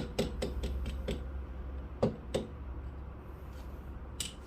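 A quick run of light clicks and taps, about six in the first second, then two more a little after two seconds and one sharper click near the end: small tools and parts being handled during espresso puck preparation.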